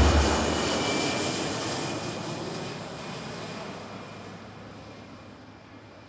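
Airplane engine noise, a steady rush with a faint whine, fading gradually away.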